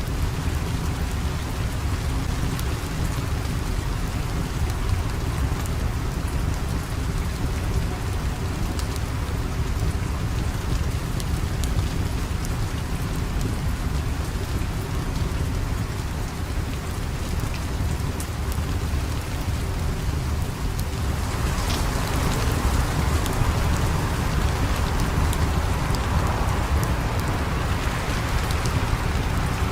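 Steady rain falling, with a continuous low rumble underneath and faint scattered ticks. The rain grows louder about two-thirds of the way through.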